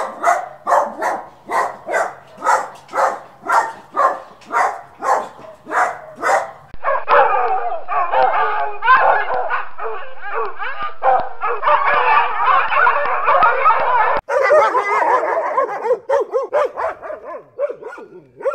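Dogs barking. First one dog barks again and again, about twice a second. About seven seconds in it switches abruptly to a dense run of overlapping barks and yaps from several dogs.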